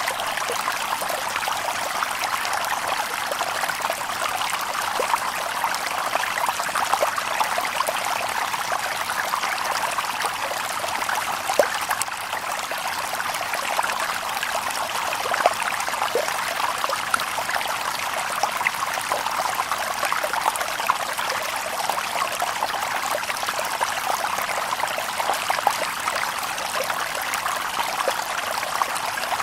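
Shallow stream babbling and splashing over stones, a steady rush of water with small plops and gurgles throughout.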